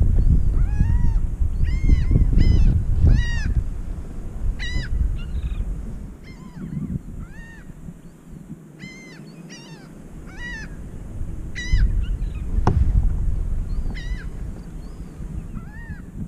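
Birds calling over open water: many short calls that rise and fall in pitch, coming in quick runs, with wind buffeting the microphone loudest early on and again in the last few seconds. A single sharp click cuts in about two-thirds of the way through.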